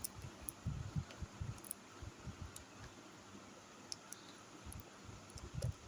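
Faint, scattered clicks and low knocks of small parts being handled, as a charger lead is connected to a homemade battery pack.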